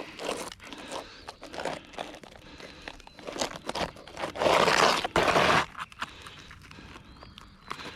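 An asphalt roof shingle being cut down and handled: irregular rough crunching, scraping and tearing, with a longer, louder scrape about halfway through.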